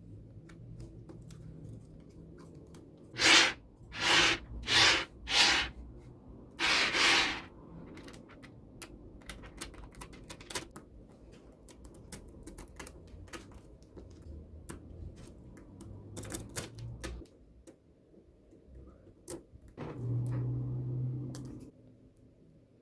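Small magnetic balls clicking and snapping together as they are handled, with many sharp clicks. Five louder, noisier bursts come about three to seven seconds in.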